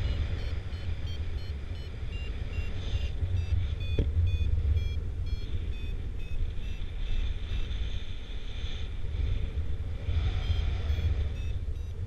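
Flight variometer beeping in quick short pulses whose pitch steps up and down as the glider climbs in a thermal, over a steady rush of wind on the microphone.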